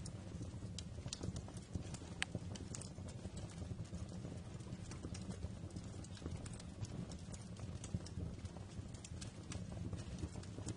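Wood fire crackling in a fireplace: irregular sharp pops and snaps over a steady low rumble of the burning fire, with a louder pop about two seconds in and another near eight seconds.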